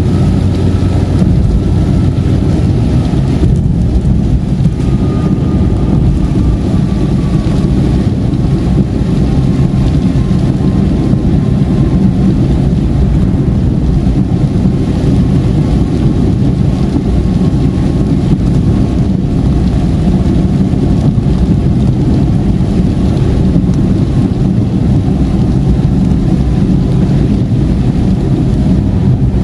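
Car driving at highway speed: a steady, loud road and engine rumble, with a faint whine slowly falling in pitch.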